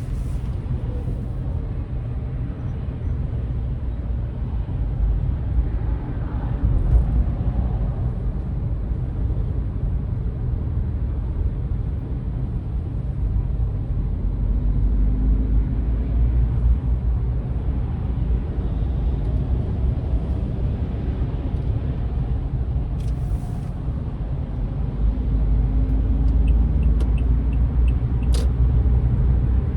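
Steady low rumble of a vehicle on the road, engine and tyre noise, swelling louder twice, with a short run of light ticks near the end.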